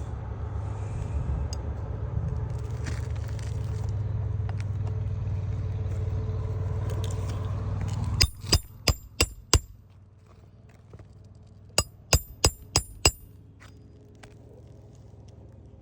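Hammer driving roofing nails through an asphalt shingle: a quick run of five sharp, ringing strikes about eight seconds in, then another run of five a couple of seconds later. Before the strikes there is a steady low rumble.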